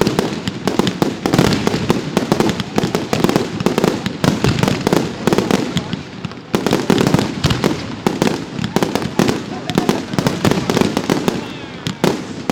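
Professional fireworks display firing a dense barrage: rapid, continuous bangs and crackle, easing briefly about six seconds in before picking up again.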